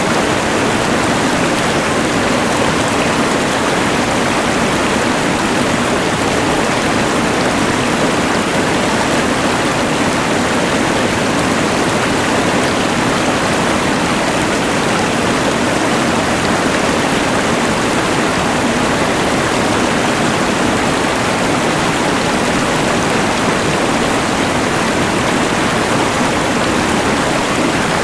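A mountain river rushing, mixed with the steady hiss of a LectroFan white noise machine, giving one even, unbroken wash of noise.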